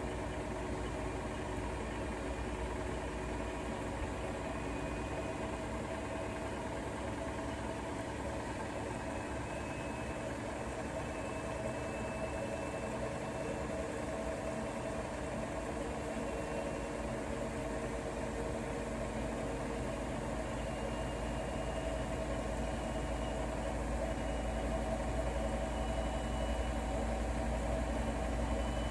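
Bosch Serie 4 WAK20260TR front-loading washing machine running mid-cycle on a 90 °C cotton programme: a steady motor hum as the drum turns, with a low rumble growing louder over the last few seconds.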